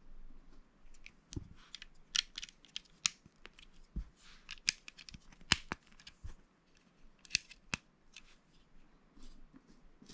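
Plastic Lego pieces handled and pressed together: an irregular run of sharp clicks and small rattles, the sharpest about five and a half seconds in.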